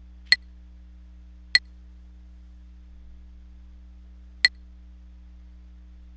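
Three short, sharp computer mouse clicks, spaced irregularly, over a steady low electrical hum.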